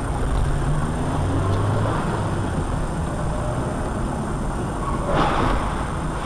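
Car on the move: steady engine and road noise, with a brief louder rush about five seconds in.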